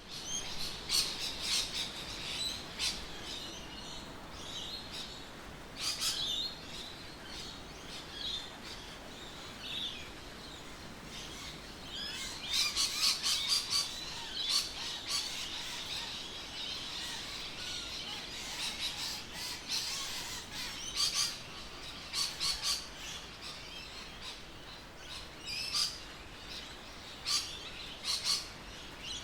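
Birds chirping and calling: many short, high calls, busier in a few flurries, over a faint steady outdoor background.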